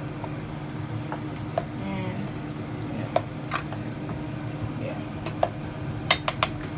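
Spaghetti in meat sauce heating in a pot, the thick sauce popping and plopping in scattered spurts, several in quick succession near the end, over a steady low hum.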